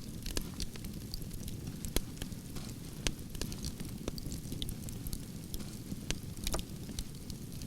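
Wood fire of burning logs crackling and popping, with irregular sharp snaps over a steady low rumble of flame.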